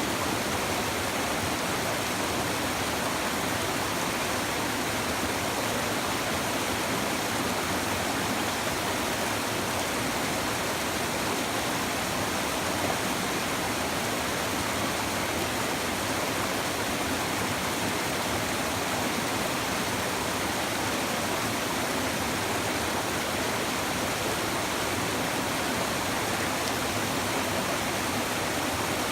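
Shallow stream babbling over stones, a steady, unbroken rush of flowing water.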